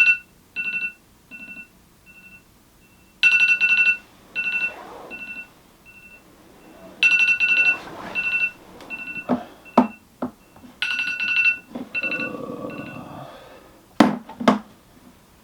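Electronic alarm tone sounding, a loud two-note chime followed by fainter, fading repeats, coming round about every four seconds. A few knocks and rustles sound in between, louder near the end.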